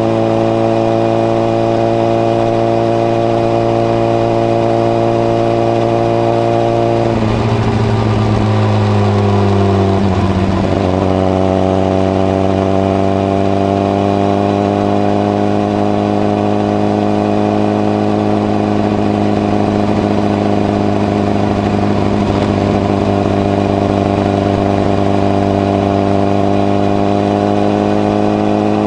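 Honda CBR1000RR (SC57) inline-four engine running through a modified Moriwaki muffler with the baffle fitted, heard while riding. A steady engine note that dips in pitch about seven to ten seconds in, then climbs slowly.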